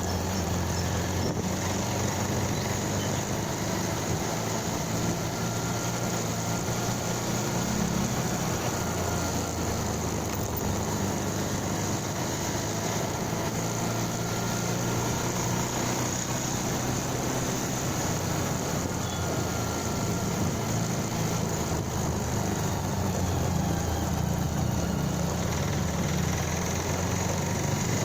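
Motorcycle engine running steadily, with an even hiss over it throughout.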